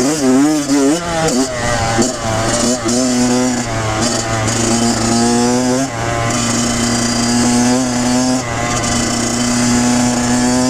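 2016 Kawasaki KX100's two-stroke single-cylinder engine running under way. Its pitch rises and falls with the throttle for the first six seconds or so, then holds fairly steady.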